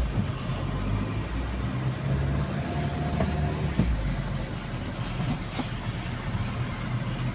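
Steady low rumble and hiss of a moving road vehicle, with a faint brief tone near the middle.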